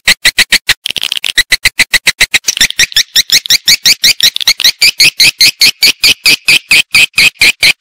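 Edible-nest swiftlet calls, of the kind played as a lure to draw swiftlets into a nesting house. They form a loud, rapid, even train of high chirps, about seven a second, and each chirp turns into a short rising sweep after a couple of seconds.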